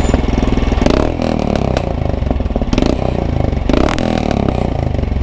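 Royal Enfield Himalayan's single-cylinder engine running through a freshly fitted PoweRage aftermarket exhaust, with a couple of brief throttle blips. A few sharp clicks sound over it.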